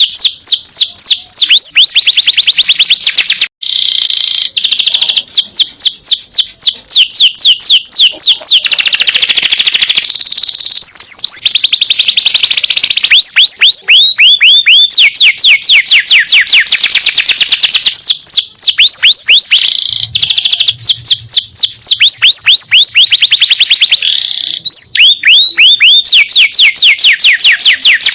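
Male domestic canary singing in long, rapid trills of repeated downward-sweeping whistled notes, loud throughout, with a brief break a few seconds in.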